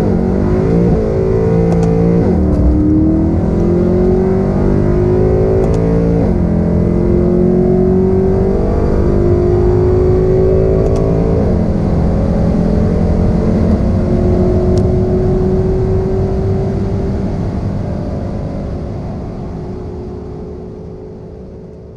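Mercedes C63 AMG's naturally aspirated 6.2-litre V8, catalytic converters removed, under full-throttle acceleration: the engine note climbs through the revs and drops sharply at three upshifts, about two, six and eleven seconds in. After the last shift it pulls more slowly in a high gear, and the sound gradually dies away over the last few seconds.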